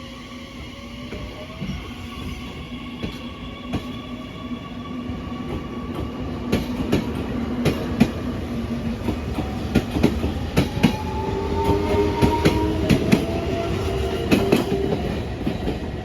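Train running on rails: wheels clicking over rail joints, louder and more frequent from about six seconds in, over a steady whine whose tones slowly glide up and down in pitch.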